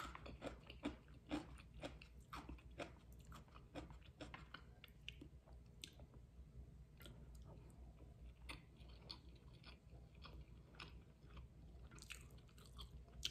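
Quiet, wet chewing and biting of a person eating, made of many short mouth clicks. They come thickly for the first few seconds and more sparsely after.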